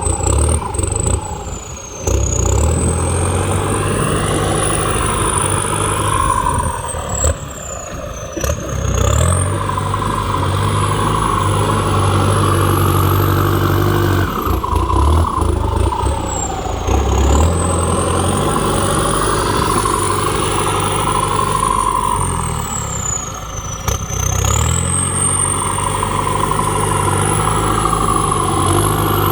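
Kubota tractor diesel engine running under plowing load, with a high whine that rises and falls several times as the load and revs change.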